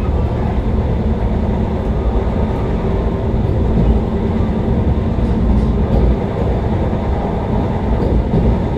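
Vande Bharat express train running, a steady low rumble of wheels and track noise.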